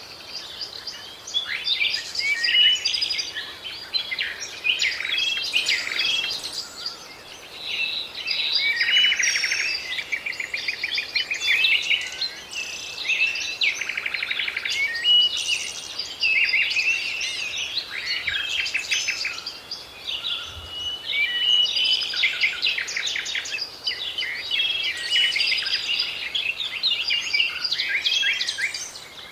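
Several songbirds singing and calling at once, a dense chorus of chirps, whistles and fast rattling trills.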